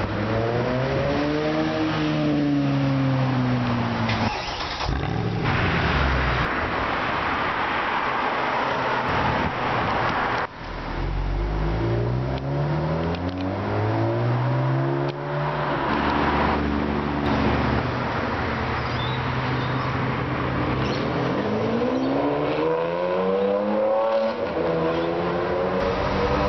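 Sports car engines accelerating hard away from the kerb in three separate passes, the engine note climbing in pitch as each one revs up and dropping at the gear changes, with a loud exhaust and road roar as they go by.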